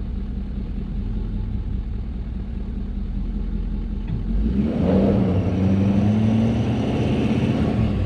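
Truck engine idling, then revving up about four and a half seconds in and holding at the higher speed.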